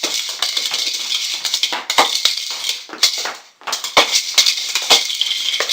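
A noise-making toy rolling on the floor and rattling continuously, with a few sharper knocks and a brief pause about three and a half seconds in.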